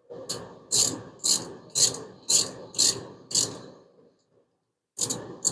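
Hand ratchet wrench worked back and forth while tightening bolts on a 5.7 Hemi's valve train. About seven swings of clicking come roughly two a second, then a pause, then a few quicker swings near the end.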